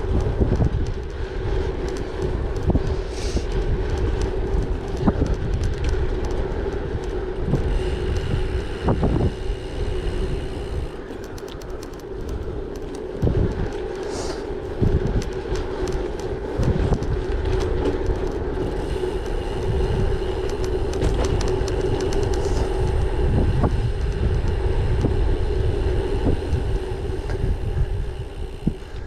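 Bicycle rolling at speed: a steady tyre hum, wind buffeting the microphone, and scattered clicks and knocks from the road surface.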